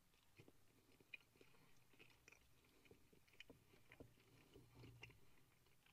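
Faint chewing of a fried chicken leg piece: a few soft mouth clicks and crunches scattered through near silence.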